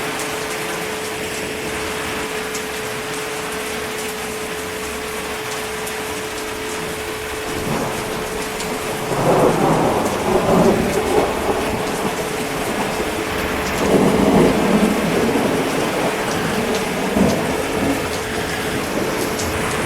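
Steady rain with thunder rolling in: two long rumbles, the first about nine seconds in and the second about fourteen seconds in.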